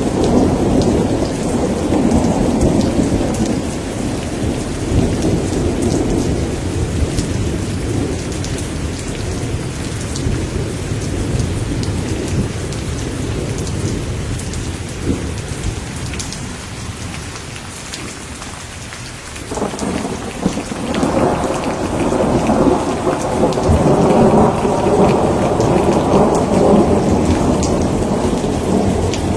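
Steady rain with rolling thunder. A long rumble fades away through the first half, then a new peal breaks in about two-thirds of the way through and builds to its loudest near the end.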